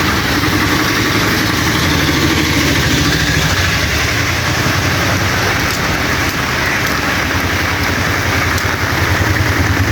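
Steady hiss of rain and running water under the low, even hum of an idling vehicle engine.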